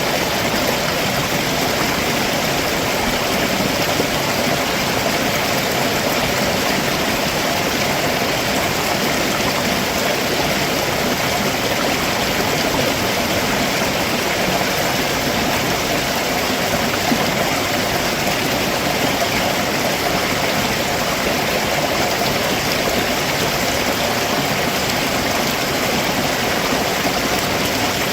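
A rocky stream below a waterfall, its water running over rocks in a steady, even rush.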